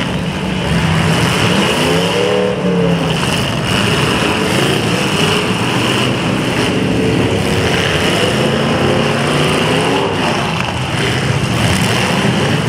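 Several demolition derby cars' V8 engines revving at once, pitches rising and falling, over a loud continuous din.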